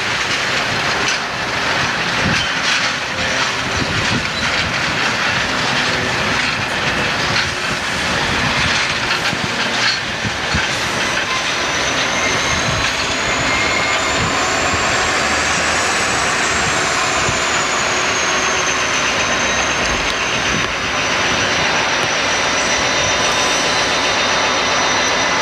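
A passenger train rolling past, its wheels clicking over the rail joints. From about halfway through, a thin high squeal from the wheels on the rails rises and falls in pitch and keeps on alongside the rumble of the cars.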